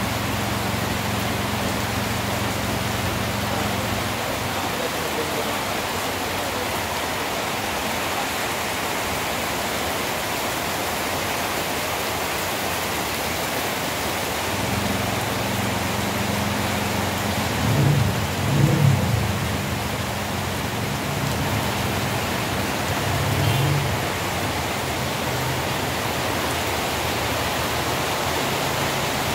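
Heavy rain falling, a steady dense hiss. Underneath, the low hum of a vehicle engine comes and goes, with a few brief louder low surges a little past the middle.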